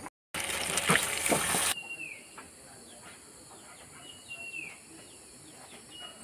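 Meat sizzling loudly in a wok for about a second and a half, then it cuts off. Faint birdsong follows: a few clear whistles that fall in pitch, with small chirps between them.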